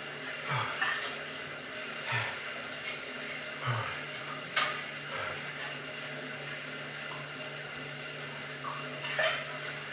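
A man breathing hard during exercise, with short, noisy exhalations about every second and a half over a steady low hum. A single sharp click comes about halfway through.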